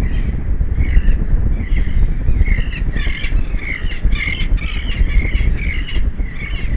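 Birds squawking in a fast run of short, harsh calls, densest in the middle, over a steady low wind rumble on the microphone.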